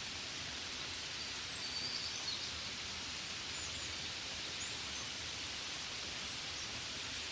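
Steady gentle rain falling, an even hiss with no breaks, with a few faint high bird chirps about one to five seconds in.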